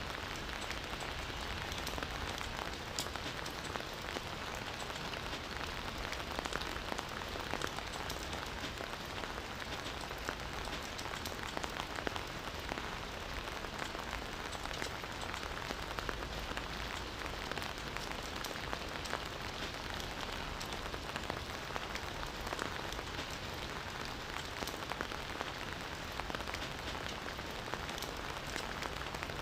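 Steady rain falling on foliage and ground, an even hiss with many individual drops ticking through it.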